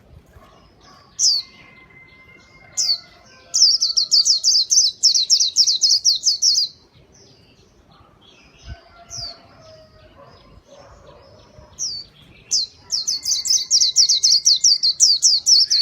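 White-eye (pleci) singing: a few separate high chirps, then a long rapid run of falling high notes, and after a pause another chirp or two and a second long rapid run starting about three quarters of the way through.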